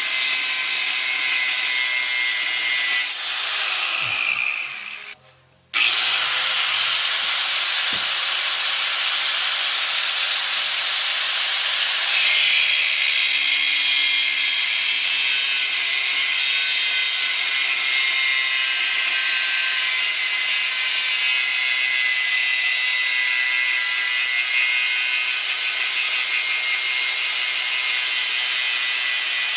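Electric power tool working steel plate, a steady, harsh, high-pitched noise. About four seconds in it winds down and stops briefly, then starts again abruptly and runs on steadily.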